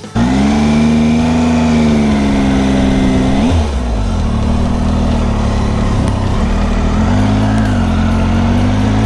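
Triumph Tiger 800's three-cylinder engine heard while riding, pulling at a fairly steady pitch with wind rush. The engine note breaks sharply about three and a half seconds in, as at a gear change, and dips briefly again near the end.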